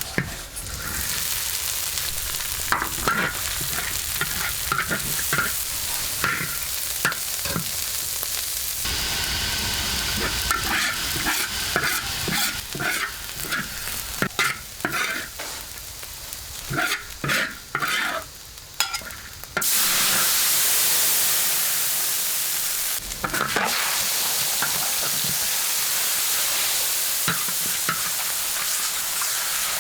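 Food sizzling in a hot pan as it is stirred, with a spatula scraping and knocking against the pan many times. The sizzle swells for a few seconds about twenty seconds in.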